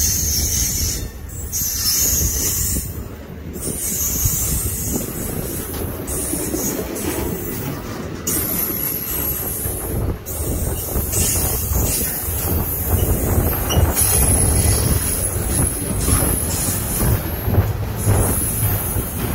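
Freight train's autorack cars rolling past close by: a steady rumble of steel wheels on the rails, with a thin, high wheel squeal joining in about three-quarters of the way through.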